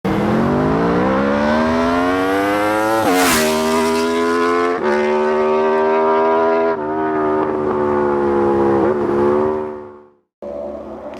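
A sportbike engine accelerating hard through the gears: its pitch climbs, then drops sharply at each of about four upshifts, before the sound fades out. Shortly before the end, after a brief gap, a different engine sound starts.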